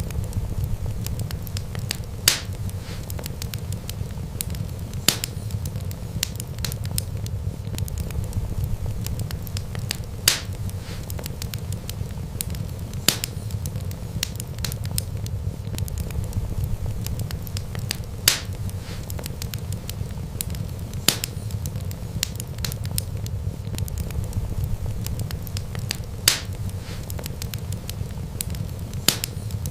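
Wood fire crackling over a steady low rumble, with a sharp pop every few seconds.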